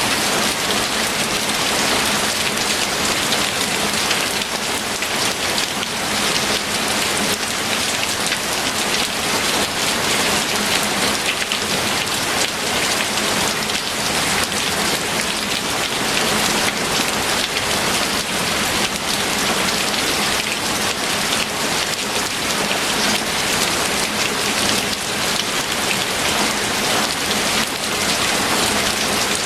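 Steady rain falling, an even hiss of many drops that holds at the same level without pauses.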